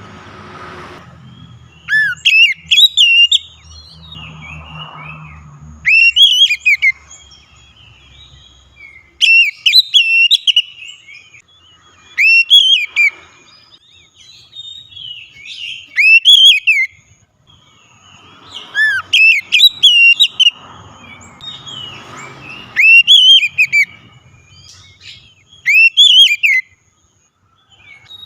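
Oriental magpie-robin (kacer) singing loud, clear whistled phrases of rising and falling notes, each about a second long, one after another about every two seconds.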